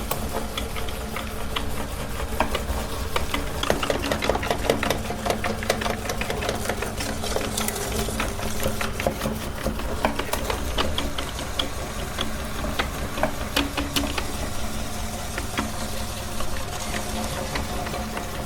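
Electric meat grinder running with a steady motor hum, with many irregular clicks and crackles from the auger working food through the plate.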